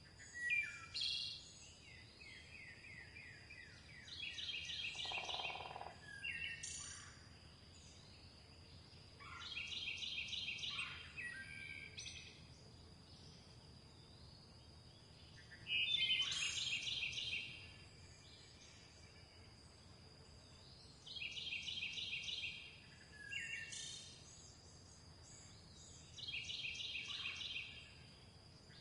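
A songbird singing the same short phrase again and again, about every five to six seconds: a quick run of repeated high notes, then a few falling notes. A faint steady high tone lies underneath throughout.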